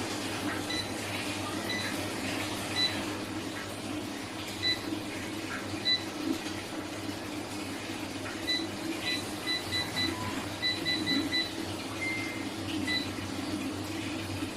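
Electric air fryer running with a steady fan hum, with short high electronic beeps, single ones early and then several in quick succession from about eight seconds in.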